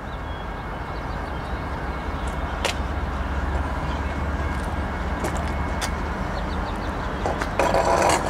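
Low, steady rumble of distant diesel locomotives working through a rail yard, with a few sharp clicks or clanks. Near the end comes a short, louder pitched burst.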